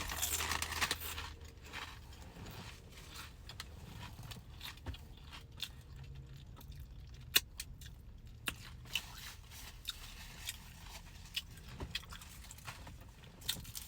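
Close-up eating sounds: a crunchy bite and chewing in the first second or so, then quieter chewing with scattered sharp clicks and small rustles.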